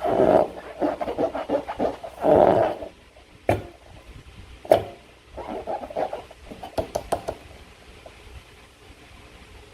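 Slime being squeezed and worked by hand, making irregular wet squelches and sharp clicks. There are two longer squelches near the start and again about two seconds in, then single clicks, a quick run of small crackling pops past the middle, and then it goes quieter.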